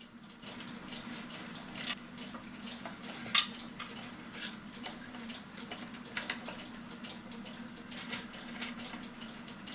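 Metal cuckoo-clock chain clicking and rattling irregularly against the movement's sprocket as it is fed in by hand and starts to catch on the wheel.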